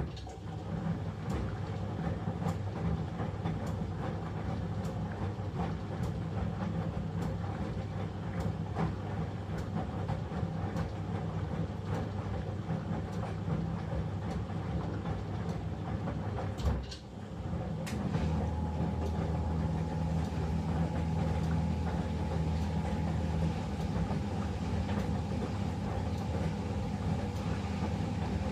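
Eudora 38 Super washing machine running, its drum and motor making a steady hum with a regular tick about three times every two seconds. About two-thirds of the way through it briefly drops out, then picks up again with a steadier, deeper hum and a held tone.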